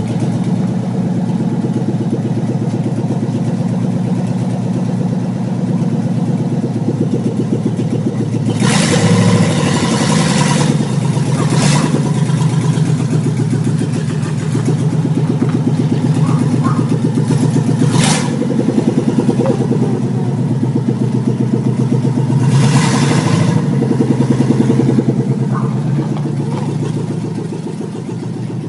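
A 1955 Chevy panel truck's engine running loudly, with several short rushes of revving as it moves off; the level drops near the end.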